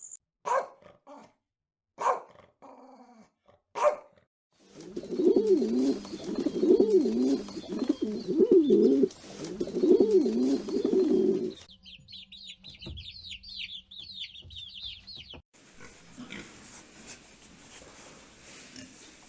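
A run of different animal calls: a few short calls, then a loud wavering low call repeated over and over for about seven seconds, then a few seconds of rapid high chirps, ending in a faint noisy stretch.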